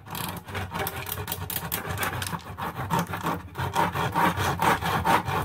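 Saw cutting across a tough corn cob in quick, rhythmic back-and-forth strokes.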